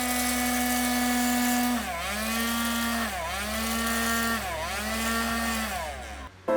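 Small DC motor of a homemade bottle vacuum cleaner running at speed with a high whine and an airy hiss. Its pitch dips briefly and recovers three times, then it stops just before the end.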